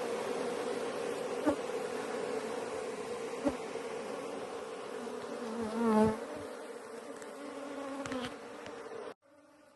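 A swarm of honeybees buzzing around an opened, freshly smoked hive, a steady hum from a stirred-up colony. About six seconds in, one buzz comes louder and bends in pitch, with a couple of light clicks earlier. The sound cuts off suddenly near the end.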